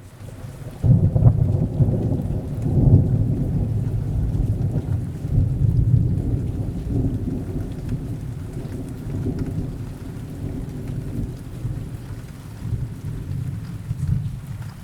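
Rain fading in from silence, then a long roll of thunder that breaks in about a second in, is loudest over the next few seconds and slowly dies away under the steady rain, with a smaller swell near the end.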